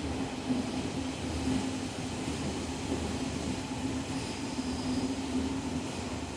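Steady interior noise of a train carriage: an even rumble with a constant low hum underneath.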